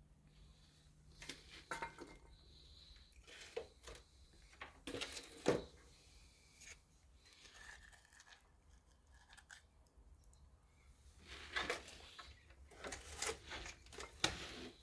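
Faint, irregular scrapes, clicks and rustles of hands and a tool poking at sludge in an open cylinder of a Chrysler 440 marine engine. The sounds are loudest about five seconds in and again near the end.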